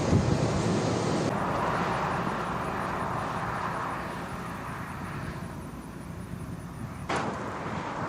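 Steady road and wind noise of a moving vehicle, a rumbling hiss whose high end drops away about a second in and which slowly fades, with one sharp click near the end.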